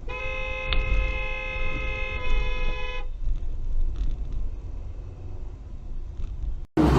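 Car horn sounding steadily for about three seconds over a low rumble of road noise. Near the end, the sound cuts abruptly to a loud rushing noise.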